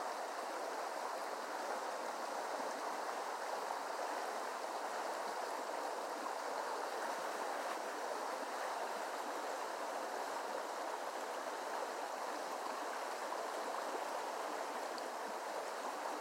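Creek water flowing steadily, an even rushing noise that holds the same level throughout.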